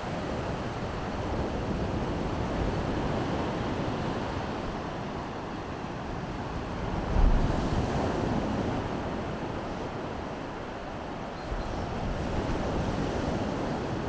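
Baltic Sea surf washing onto the beach, swelling and easing in turn, with wind on the microphone. A short low thump comes about halfway through.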